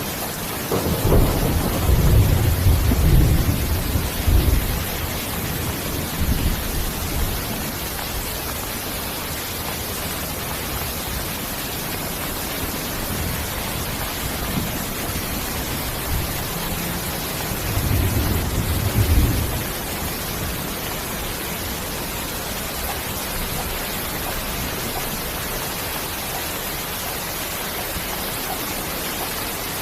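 Steady rain, with low rolls of thunder: a long rumble about a second in, a short one around six seconds, and another near the eighteen-second mark.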